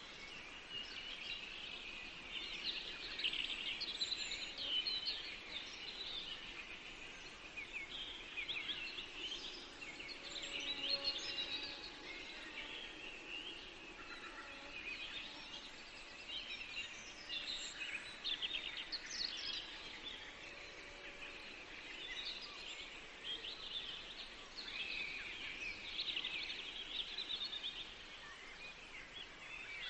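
Several songbirds singing and chirping at once, a steady chorus of quick high trills and chirps over a faint hiss of forest background.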